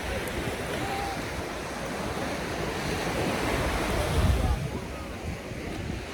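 Sea water washing and lapping at the shore, with wind buffeting the microphone.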